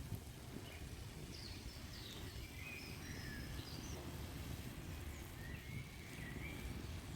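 Songbirds calling with scattered short chirps and whistles over a steady low rumble of outdoor background noise.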